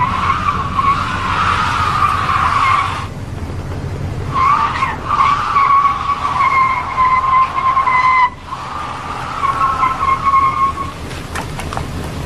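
Car tyres squealing as a car skids, in three long squeals of a few seconds each, broken by short gaps.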